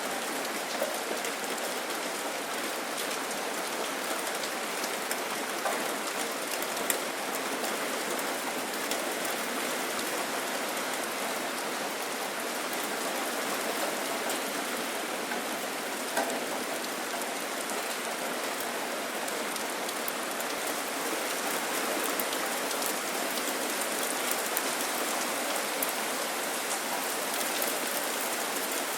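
Steady rain falling, an even hiss with a few louder single drop taps here and there.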